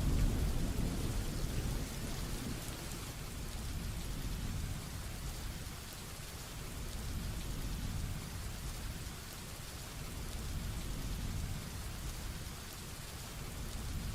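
Heavy rain falling steadily, with the tail of a thunder rumble dying away in the first couple of seconds and softer low rumbles of thunder coming and going under the rain.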